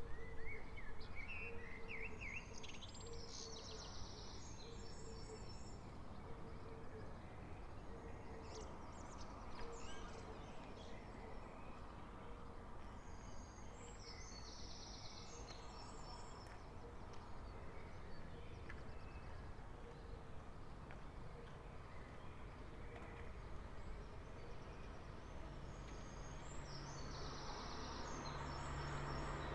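Early-morning songbirds over a faint steady hum. One bird sings a short high phrase three times, about every twelve seconds, and a low repeated note sounds in the first dozen seconds. A vehicle approaches near the end.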